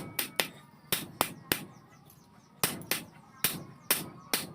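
Hammer blows on metal, about ten sharp strikes at an uneven pace, some in quick pairs, each with a short ring: forging or shaping bearing steel into a blacksmith tool.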